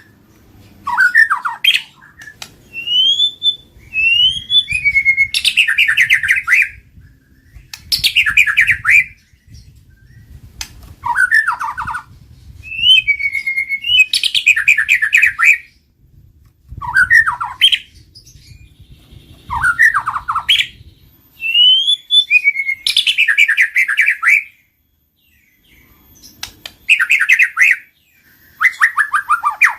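White-rumped shama (murai batu) calling over and over: short loud phrases of whistled glides that sweep up or down, each running into a fast rattling trill, with brief pauses between phrases.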